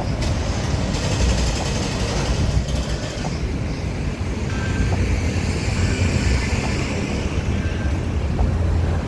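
Steady low vehicle rumble with a hiss above it that swells and fades slightly.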